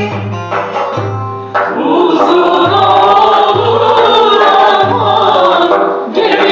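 A Turkish folk song (türkü) sung with instrumental accompaniment over a low beat that lands about once a second. A single voice gives way to a full choir about one and a half seconds in.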